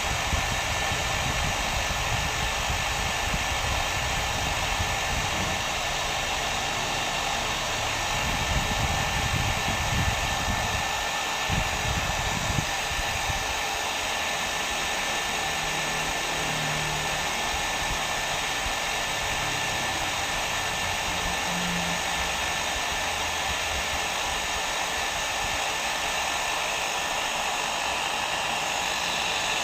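Hair dryer blowing steadily, an even rushing noise with a thin steady whine on top; the low rumble is uneven for the first dozen seconds, then settles.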